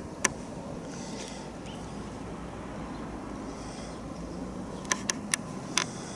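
Wind rumbling on the microphone, with one sharp click just after the start and a quick cluster of four or five sharp clicks near the end.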